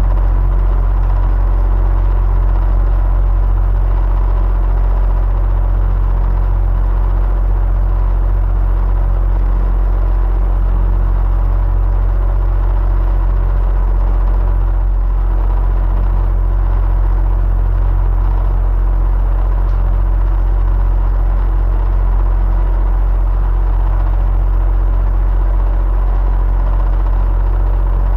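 Electric fan running steadily: a constant deep hum under an even rushing noise, with a few faint steady tones in it and no change in level.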